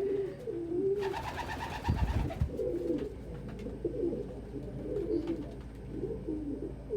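Domestic pigeons cooing over and over, several low wavering coos overlapping. A brief higher-pitched sound and a low thump come about one to two seconds in.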